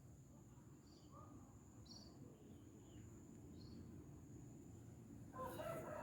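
Faint outdoor ambience: a few short, high bird chirps over low, steady background noise and a thin, steady high tone. A person's voice comes in briefly near the end.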